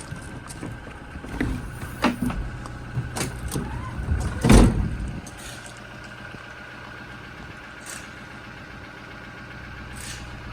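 Toyota Hilux pickup's rear tailgate being handled: a run of clunks and rattles over a few seconds, ending in one heavy thud about four and a half seconds in as it is shut. A steady low hum runs underneath.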